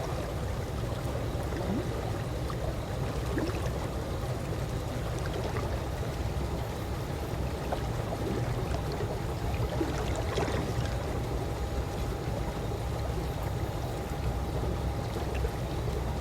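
Calm swimming-pool water lapping and gurgling steadily, with a low rumble and small trickles and splashes, one slightly brighter splash about ten seconds in.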